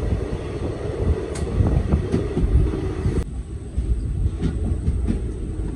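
Express passenger train running, heard from an open coach door: a heavy, steady rumble of steel wheels on rails with irregular clicks of rail joints. The sound changes abruptly a little past three seconds in, as the hiss above the rumble drops away.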